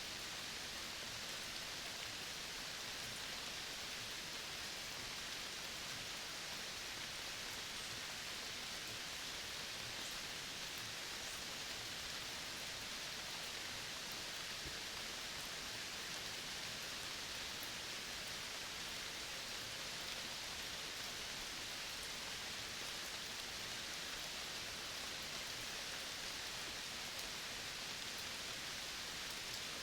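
Steady outdoor nature ambience: an even hiss, strongest in the upper-middle range, with no distinct calls or events standing out.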